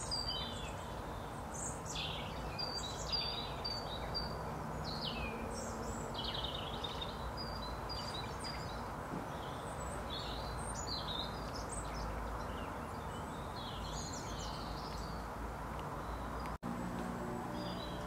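Wild songbirds calling and singing: many short, high chirps and quick trills, some notes repeated in runs, over a steady outdoor hiss.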